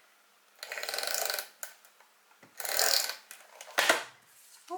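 Adhesive tape runner drawn along card twice, each stroke a rasping, finely clicking run about a second long, followed by a sharp click.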